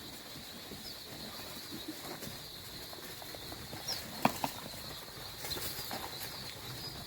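A crowd of young pheasant poults, just under three weeks old, keeps up a steady high peeping chorus. Small scattered clicks run through it, and one sharp knock a little over four seconds in is the loudest sound.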